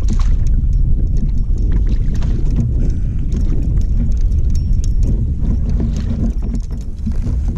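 Wind buffeting the microphone as a kayak moves across the water: a loud, steady low rumble with scattered small knocks.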